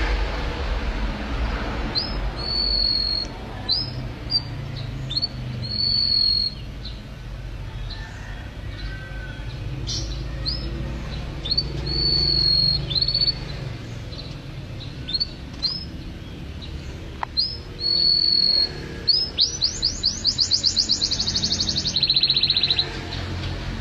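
Domestic canary singing: short rising chirps and held whistled notes, then near the end a fast trill of rapidly repeated notes that drops into a lower, quicker rattling trill.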